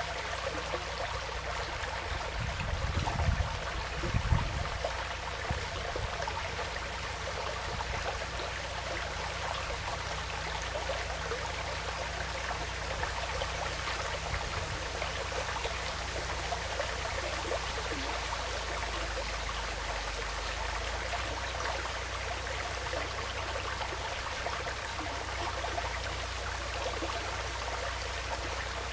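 A woodland stream flowing steadily over stones, a continuous trickling and splashing. A few low thumps come about three to four seconds in.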